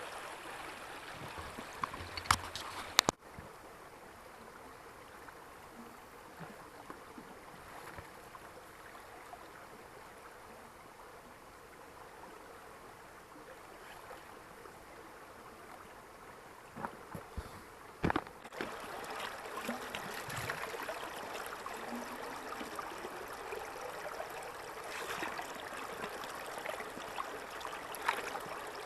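Small spring trickling and running out from under a tree. A few sharp knocks come about two to three seconds in and again around eighteen seconds, and the water sound drops off abruptly about three seconds in, then comes back louder after eighteen seconds.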